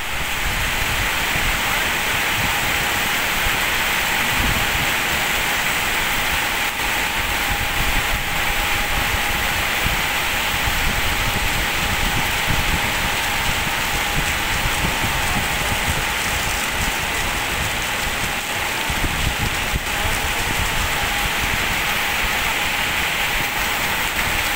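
Heavy rain falling steadily on open ground, a continuous even hiss.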